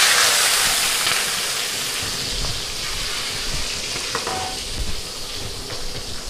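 Food tipped into hot oil in a wok, sizzling loudly as it goes in, then easing into a steady frying hiss.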